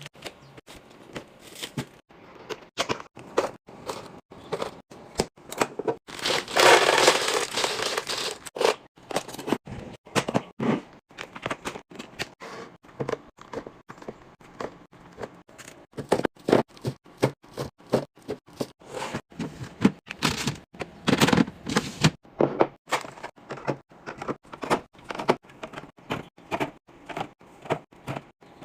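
Packaging and containers being handled while a pantry or fridge is restocked: a quick run of clicks, taps and crinkles, with a denser rustle for about two seconds around seven seconds in.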